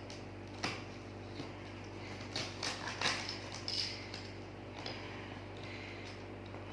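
Cardboard box being handled and cut open with a paper cutter: scattered clicks, scrapes and rustles, busiest about two to four seconds in, over a steady low hum.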